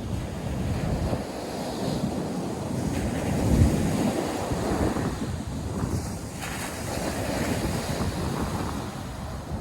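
North Sea surf breaking on the beach, with wind buffeting the microphone; a louder low surge comes about three and a half seconds in.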